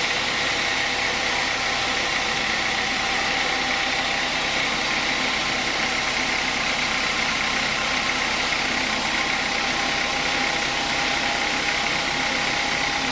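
Sawmill saw machine running steadily, an unbroken mechanical drone with a constant whine.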